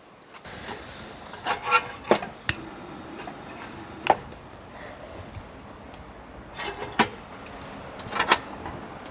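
A series of irregular sharp knocks and clatters, the loudest single knocks about two, four and seven seconds in, over a low steady background.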